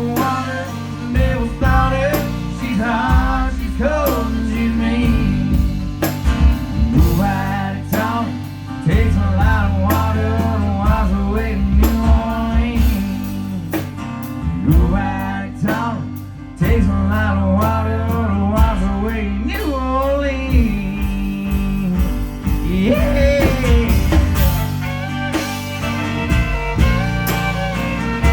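A live rock band playing an instrumental break of the song: bass and drums under a lead instrument soloing with bending, wavering notes.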